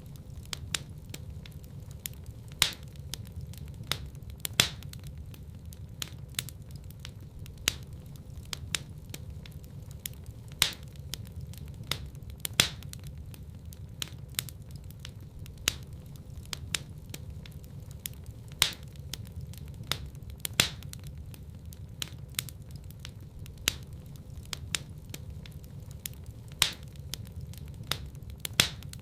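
Wood fire in a fireplace crackling, with frequent sharp pops over a low steady rumble of the flames; a louder pop stands out every couple of seconds.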